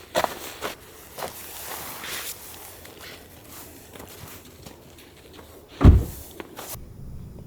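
Scattered light knocks and clicks of gear being handled, with one heavy thump about six seconds in, after which the sound cuts to quieter background.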